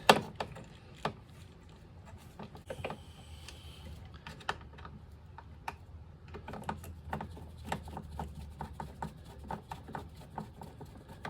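Hand tools clicking and tapping against metal while screws are driven to mount a snowmobile fuel pump: a sharp knock at the start, then scattered light clicks that come quicker, several a second, in the second half, over a low steady hum.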